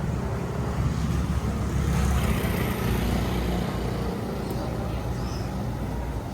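Street traffic: the steady low rumble of passing vehicles on a road, swelling a little about two to three seconds in.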